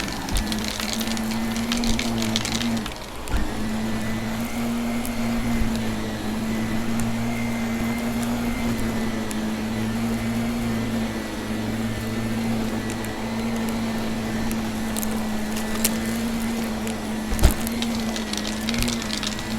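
Vacuum cleaner running steadily with a low motor hum and a faint whine, while crunchy dry debris crackles as it is sucked up near the start and again near the end. Two sharp knocks, one about three seconds in and a louder one near the end.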